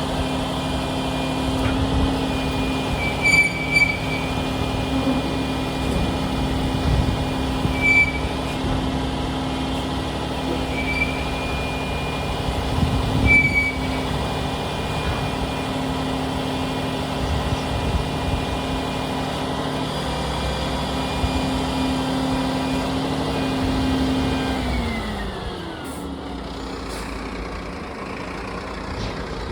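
Mack truck's diesel engine running at a steady raised speed with a few light knocks, then winding down to idle about 25 seconds in.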